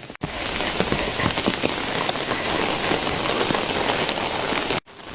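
Rain falling steadily: a dense hiss with many close drops ticking. It cuts in suddenly just after the start and cuts off shortly before the end.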